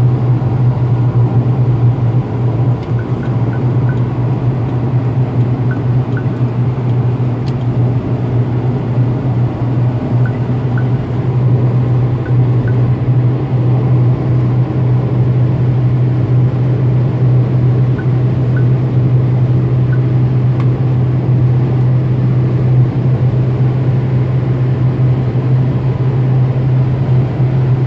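Cabin noise inside a 2019 Proton Persona driving at a steady speed: a constant low hum over road and tyre rumble, the ambient noise that carries into this car's cabin.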